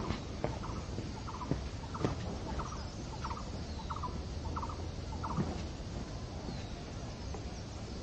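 A few soft footfalls on a dirt path in the first two seconds. Then a bird gives a run of short rattling notes, about three a second, for nearly three seconds, over a steady low rumble.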